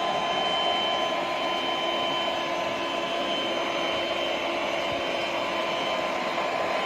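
Black+Decker Dustbuster cordless handheld vacuum running steadily: a constant motor whine over a rushing of air, with no change in pitch or level.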